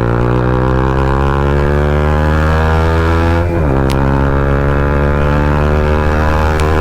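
Bajaj Pulsar NS200's single-cylinder engine through an aftermarket Akrapovic full-system exhaust under way, the pitch climbing steadily as the bike accelerates, dropping at an upshift about three and a half seconds in, then climbing again.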